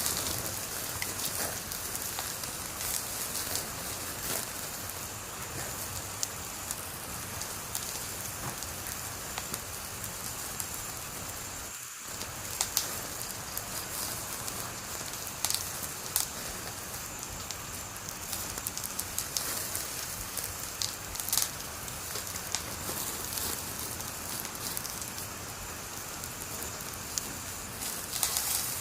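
Wood fire burning with a steady hiss and frequent sharp crackles and pops, briefly dipping about twelve seconds in.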